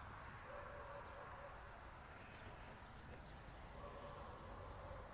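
Near silence: faint outdoor background with a low steady hum.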